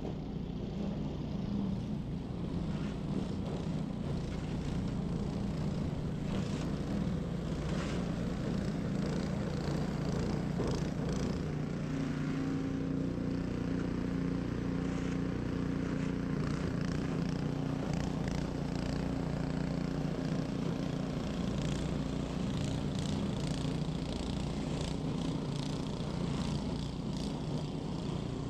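Ariens 21-inch professional snow blower's small gas engine running steadily under load, its note shifting slightly about twelve seconds in, with scattered short scraping and hissing noises over it.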